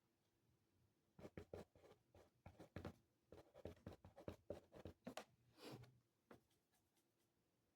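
Faint writing on paper: a quick run of short scratching strokes for about five seconds, which stops about a second before the end.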